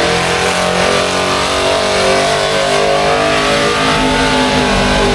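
Small-block gasoline V8 of a pulling truck running at high revs under load as it drags the weight sled. The engine pitch climbs, then sags toward the end.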